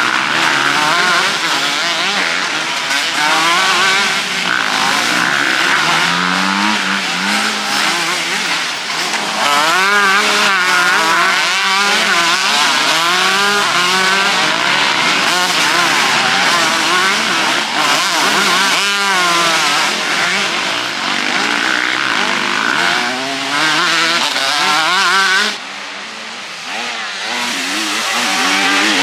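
Several motocross bikes racing, their engines revving up and down through the gears and overlapping. The level dips briefly near the end.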